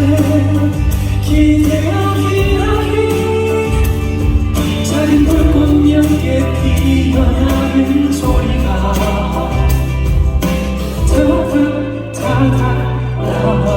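Live ballad performance: sung melody over a band accompaniment, with a full, choir-like sound of several voices singing together.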